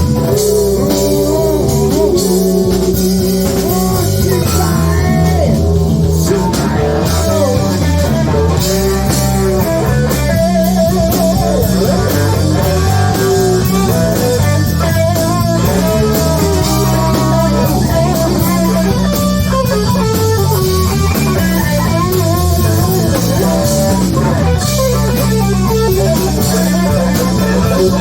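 Band music from a live rock performance, instrumental with no singing: a guitar plays a sliding, bending melody line over bass guitar and drum kit.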